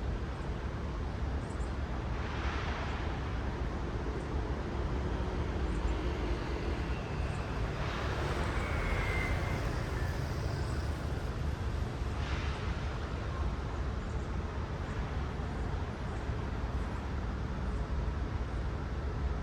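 City road traffic: a steady low rumble of cars, with passing cars' tyre hiss swelling briefly about three times.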